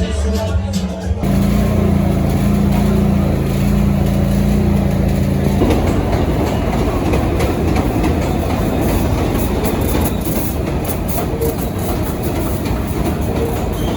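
Subway train: a steady motor hum, then from about six seconds in the rumble of the car running along the track.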